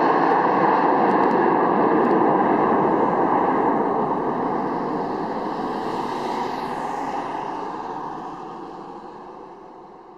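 Jet engine noise from a Boeing 757: a steady, loud roar that fades away over the second half.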